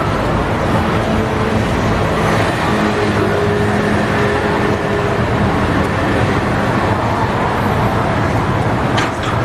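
Steady road traffic noise with vehicle engines running, and a short click near the end.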